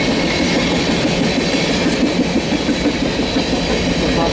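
Empty tank cars of a freight train rolling past in a steady rumble, their steel wheels clattering on the rails.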